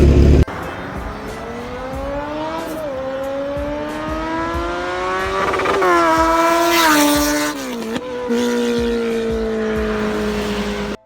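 Kawasaki Z900 inline-four with an aftermarket full-system exhaust. It revs loudly for a moment, then pulls up through the revs with a smoothly rising pitch, dipping briefly about two and a half seconds in. It climbs to a peak about seven seconds in, drops back and holds a steady note.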